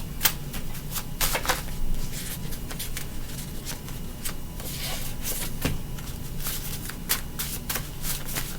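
Tarot cards being shuffled by hand: a run of irregular card snaps and rustles, with a couple of longer swishes as the deck is riffled.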